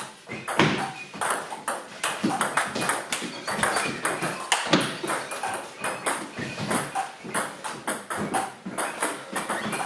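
Squash rally: the ball is struck by rackets and hits the court walls again and again, sharp echoing smacks several a second at an uneven pace.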